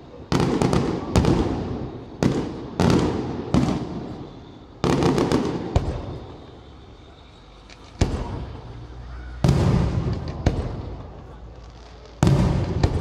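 Aerial firework shells bursting in the sky: about a dozen sharp bangs at uneven intervals, some in quick clusters, each trailing off. There is a lull of about two seconds in the middle.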